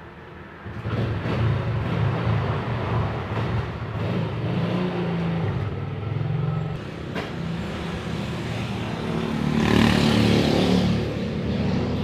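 Motorcycle engine starting up less than a second in and running unevenly, with a louder burst of revving around ten seconds in.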